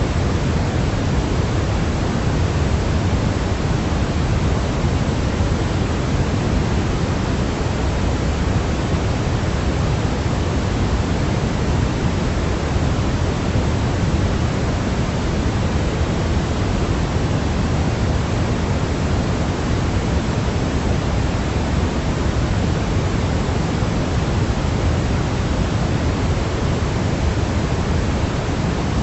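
Steady sleep white noise that never changes, heavier in the low end than in the highs, like pink noise.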